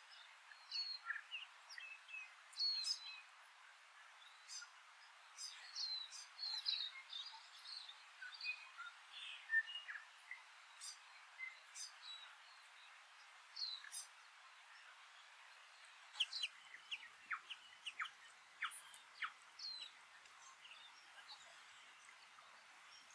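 A dunnock singing quick warbling phrases, then from about two-thirds of the way in a New Zealand bellbird calling with short, separated notes, over a faint steady hiss.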